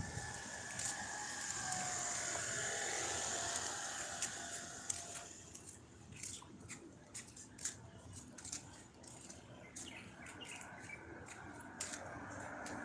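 Outdoor background with birds chirping: a steady hiss with a few faint gliding calls for the first few seconds, then many short chirps and ticks.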